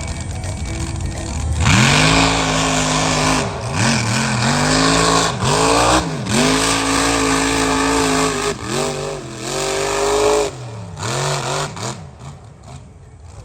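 Mega truck's engine running loud under hard throttle, its pitch dipping and climbing back several times as the throttle is let off and reopened, then fading away near the end.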